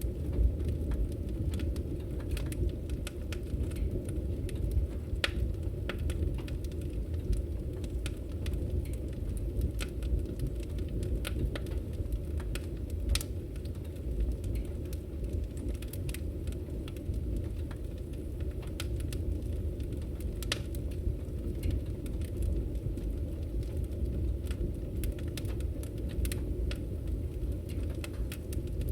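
Firewood burning in a fireplace: a steady low rumble of flames with irregular crackles and sharp pops scattered throughout, a few louder than the rest.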